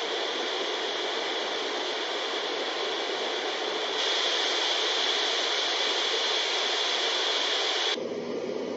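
Dreamegg Pocket Sleep 1 mini white noise machine playing a steady hissing white noise. About four seconds in it steps up in loudness. Near the end it switches abruptly to a duller, lower rushing noise.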